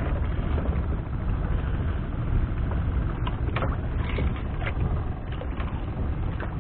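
Strong wind buffeting the microphone at sea, a steady low rumble that rises and falls in strength.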